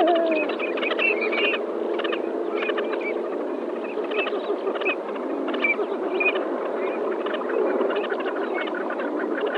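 A flock of coots calling together in a dense, overlapping chorus. Many short, quick calls and chatter run continuously, with lower curved honking notes mixed in.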